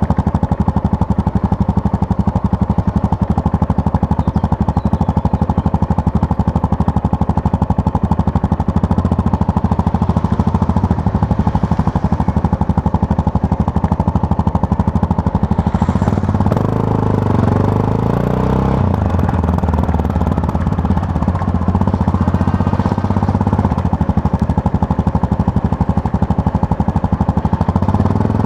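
Yamaha MT-03 motorcycle engine running steadily while riding. About two-thirds of the way through, the engine note dips and rises for a few seconds, then settles back into a steady run.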